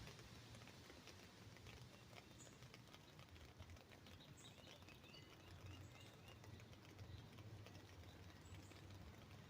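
Birds chirping faintly, a quick run of short repeated notes about four to six seconds in, over scattered light drips pattering on an umbrella as the rain dies away.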